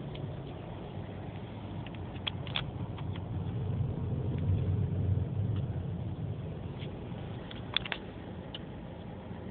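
Low rumble of a car driving that swells in the middle and then eases, with a few light clicks.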